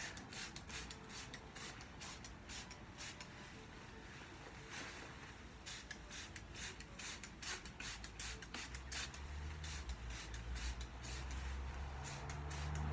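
A small hand spray bottle squirting in many quick short hissy bursts, spraying liquid onto fabric. Low music fades in over the last few seconds.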